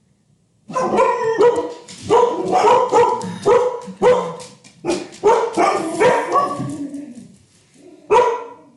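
A dog barking repeatedly, about a dozen short loud barks, with a brief lull before a last bark near the end.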